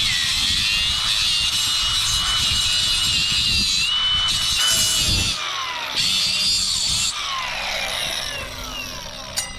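Angle grinder cutting through sheet metal with a high, steady whine, dipping twice under load. Near the end the trigger is released and the disc spins down, its pitch falling away.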